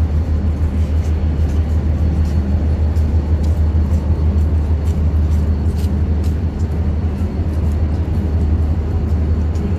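A passenger train standing at a station platform, running at idle: a steady low drone.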